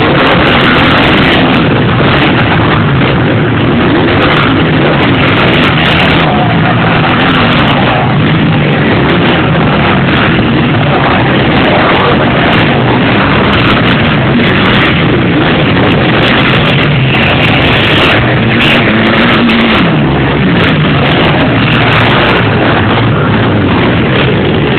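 Motocross bike engines running hard and revving, loud and continuous, their pitch rising and falling as the bikes accelerate and back off.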